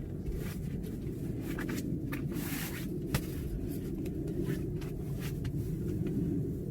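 A steady low rumble with scattered small clicks and crackles over it.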